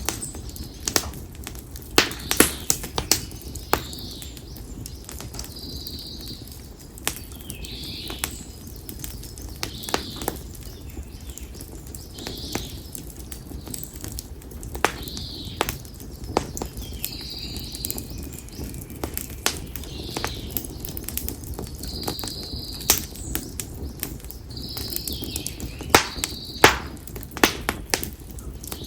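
Split konara oak firewood burning in an open fire, crackling and popping at irregular intervals, with a cluster of louder pops about two seconds in and again near the end. A bird calls over it with short high chirps every second or two.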